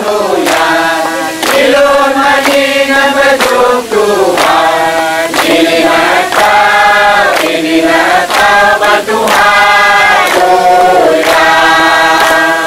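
A group of voices singing a hymn together in long held notes, with a sharp beat about twice a second keeping time.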